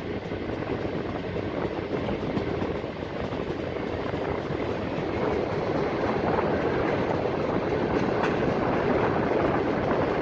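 Passenger train running along the track, a steady rumble of wheels on rails that grows a little louder about halfway through.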